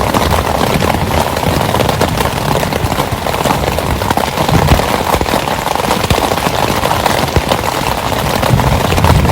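Heavy rain falling hard, a dense, steady crackle of drops striking a surface.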